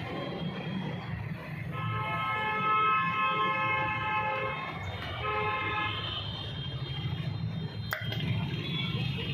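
A vehicle horn blows twice, a long toot of about three seconds and then a short one, over a steady low traffic rumble. A single sharp click comes near the end.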